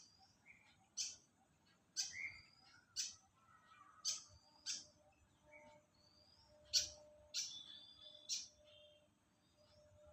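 Fantails calling: a series of short, sharp chip notes about once a second, with faint thin whistles between them.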